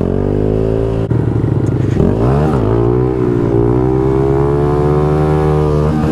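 Honda Grom's 125 cc single-cylinder engine revving under throttle during a wheelie attempt. The pitch climbs, drops sharply about a second in, blips up and back down around two seconds in, then holds high and slowly rises.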